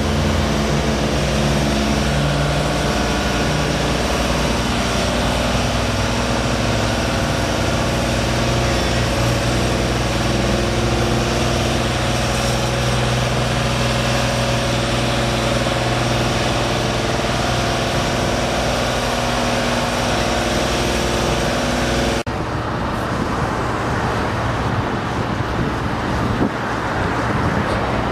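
A large engine running at a steady speed. About three-quarters of the way through it cuts off abruptly to an even roar of passing road traffic.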